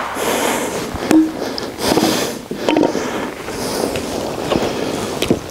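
Rustling bursts about every second and a half, with a few light sharp knocks in between, from branches and wood being handled.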